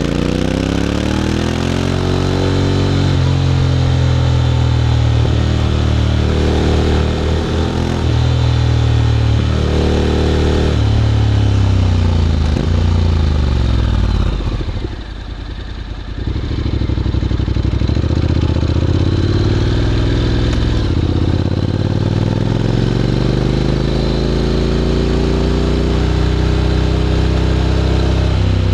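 Honda X-ADV 750's parallel-twin engine through an SC-Project titanium slip-on exhaust, accelerating through its gears: the pitch climbs and drops back at each shift. About halfway through it backs off briefly to a lower, quieter note, then pulls up again in one long rising climb.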